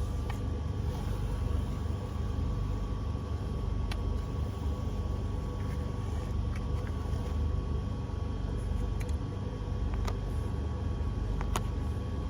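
Jeep running, a steady low rumble with a faint steady whine over it and a few sharp clicks or knocks.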